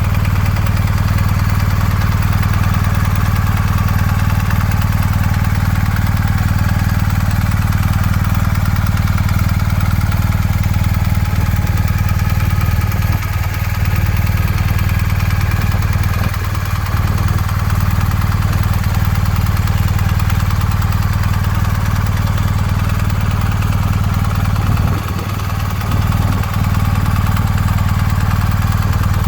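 Motorcycle engine idling steadily, with a few brief dips in level around the middle and near the end.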